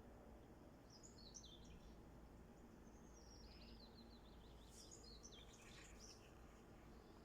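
Faint songbird song: a short burst of chirps, then a longer phrase with a rapid trill of quick falling notes, over a steady low background hiss.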